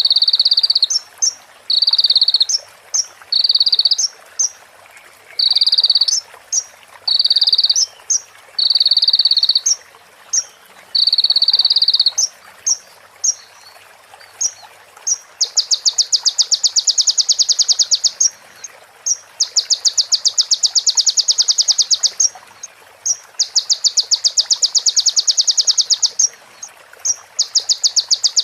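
Konin (crimson sunbird) singing a loud, full song of imitated phrases (isian) of a female prenjak and a ciblek. Short buzzy trills about a second long repeat with quick chip notes between them, and about halfway through the song turns to longer, very fast rattling trills, each lasting two to three seconds.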